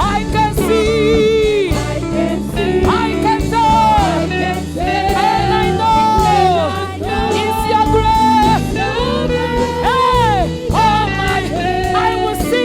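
Gospel worship singing: a lead voice sliding between long held notes with vibrato, over steady instrumental accompaniment.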